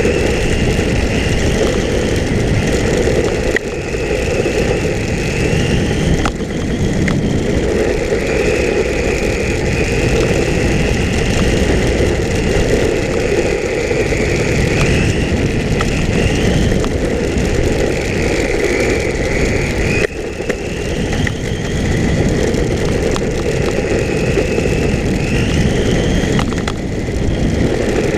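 Electric motor of an RC10L radio-controlled pan car whining, its pitch rising and falling again and again as the car speeds up and slows through the laps, over a steady rush of tyre and wind noise with a few sharp clicks.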